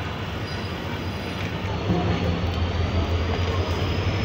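Diesel-hauled passenger train running, a steady low rumble with a faint high whine, growing louder about two seconds in.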